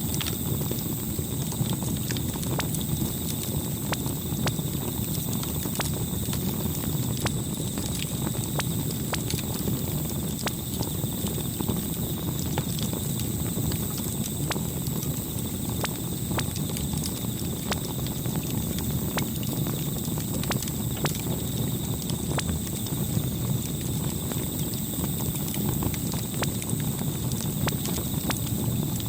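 Campfire burning: a steady low rumble of flames with frequent, irregular sharp crackles and pops of burning wood.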